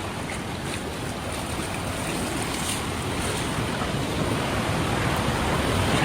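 Mountain stream water rushing over rocks: a steady rush that grows slowly louder.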